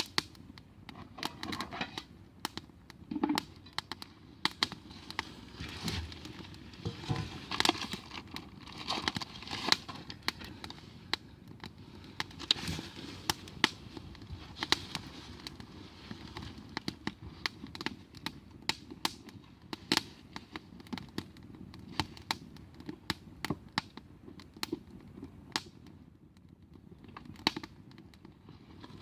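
Wood fire crackling, with frequent sharp pops at irregular intervals.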